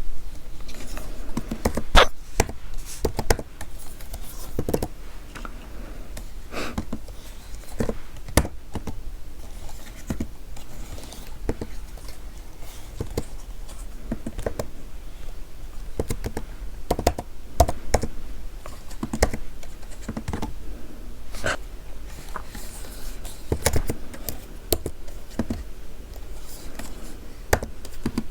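Typing on a computer keyboard: an irregular, fast run of key clicks and taps, a few keystrokes louder than the rest.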